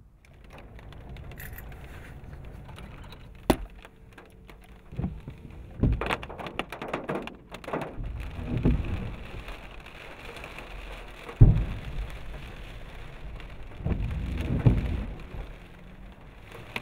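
Steady rain with a series of loud booms, some sharp and sudden, others longer and rumbling; the loudest comes about eleven and a half seconds in. They are anti-hail rockets bursting in the thunderstorm, mixed with thunder.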